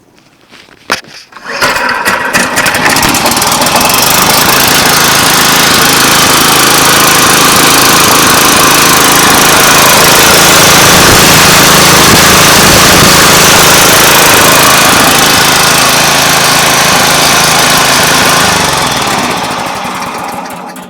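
5-horsepower Tecumseh four-stroke engine on a high wheel string trimmer, pull-started after priming. It catches on the first pull about a second and a half in and runs loud and steady at speed. Near the end it slows and dies, as a little cable comes off.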